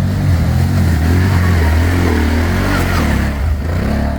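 ATV engine running steadily with a strong low drone, with a broad rushing noise over it through most of the stretch.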